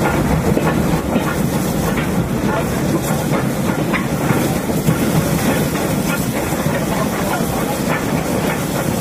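Steam-hauled train running, with the wheels clicking over rail joints above a steady running noise.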